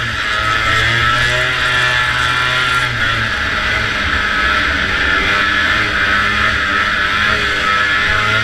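Antique two-stroke snowmobile engine running hard at racing speed, its pitch rising and falling with the throttle, under a steady rushing hiss. Heard from a helmet-mounted camera on the rider.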